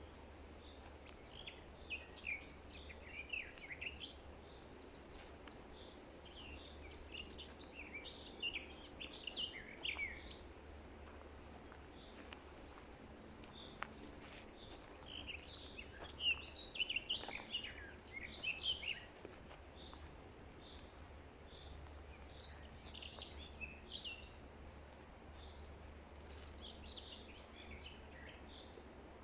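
Songbirds chirping and singing in three bouts of quick, high calls, the loudest a little past halfway, over a faint steady low hum.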